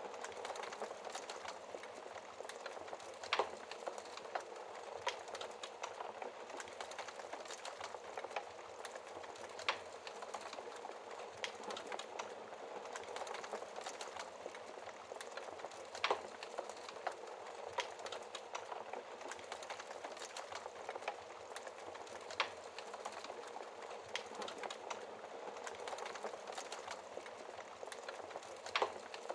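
Wood fire burning in a fireplace, crackling steadily with a soft hiss and many small snaps, and a few louder pops every six seconds or so.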